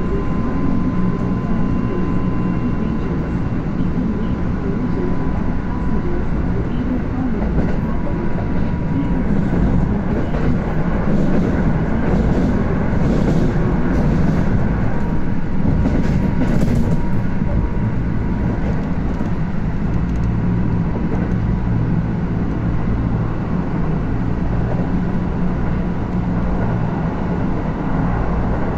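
Kintetsu electric train with GTO-thyristor inverter control running at speed, heard from inside the passenger car: a steady low rumble of wheels and running gear, with a faint steady whine that fades after about nine seconds.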